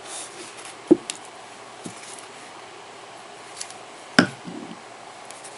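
Light taps and knocks of small objects being handled and set down on a tabletop: a sharp knock about a second in, a louder one about four seconds in, and a few fainter clicks between.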